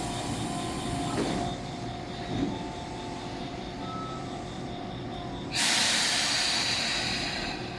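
Electric train standing at a station platform, ready to depart, with a steady electrical hum. About five and a half seconds in there is a sudden loud hiss of compressed air released from the train, lasting about two seconds.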